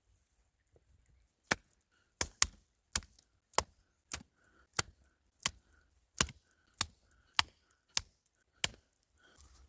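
Chopping: about a dozen sharp, regular strokes, one roughly every two-thirds of a second, starting about a second and a half in.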